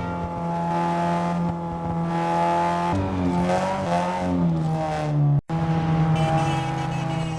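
Renault Mégane 2.0 turbo engine running steadily. Its pitch rises a few seconds in and settles back, and the sound cuts out for a split second just after five seconds.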